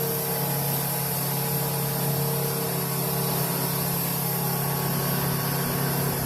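An engine running steadily at a constant speed, with a steady hiss over its low hum.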